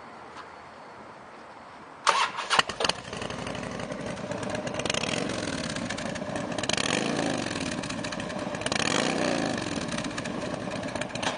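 A 2001 Harley-Davidson Road King Classic's fuel-injected 88-cubic-inch V-twin is started about two seconds in, catching after a brief crank. It then idles and is revved up and back down three times.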